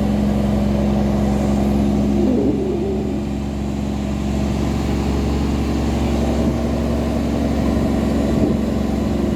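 Tugboat's diesel engine running steadily under load as it tows heavy cargo barges, a constant low drone.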